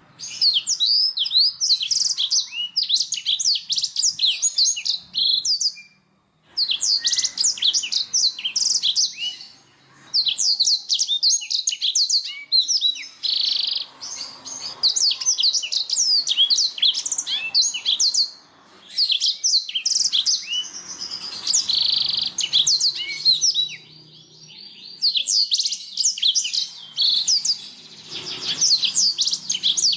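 Domestic canary singing: long runs of fast, high trills and chirps, broken by a few short pauses.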